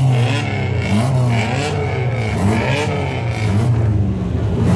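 Loud race car engine being revved in repeated blips, the revs rising and falling about once a second over a steady low idle.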